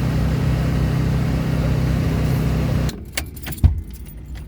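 A steady engine hum that cuts off abruptly about three seconds in, followed by a few clicks and one sharp thump.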